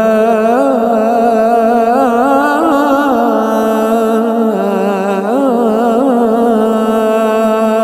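A muezzin's voice chanting the adhan (Islamic call to prayer), drawing out long held notes with wavering melismatic ornaments.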